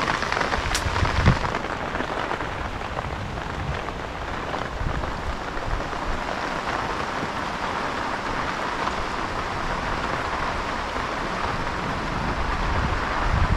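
Steady, heavy rain pouring down, with a single sharp click about a second in and short low rumbles now and then.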